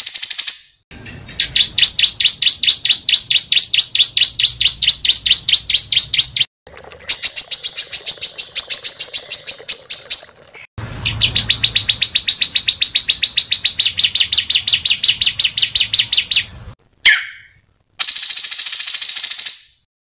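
Small songbird singing fast, tight trills: long strings of sharp, evenly repeated notes, about ten a second. The trills come in several phrases of a few seconds each, broken by short gaps, with one brief separate call near the end.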